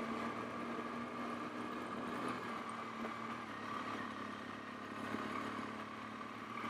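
A vehicle engine idling, a steady unchanging hum.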